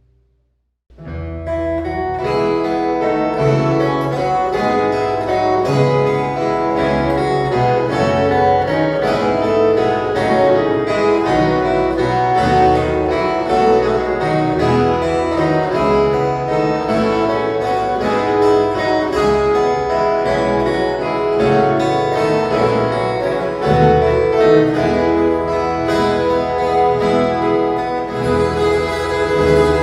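An ensemble of violas caipiras, the ten-string Brazilian folk guitars, plays an instrumental piece with fast, bright plucked notes over sustained low notes. It starts about a second in, after a brief silence.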